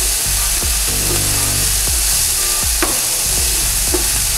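Chopped potatoes, onions and peanuts sizzling in hot oil in a pan while a spatula stirs them, with short scrapes and taps of the spatula against the pan every half second or so.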